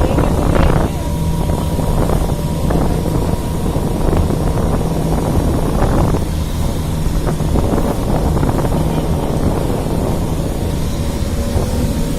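Boat engine running steadily with a low hum, under rushing noise and wind buffeting the microphone.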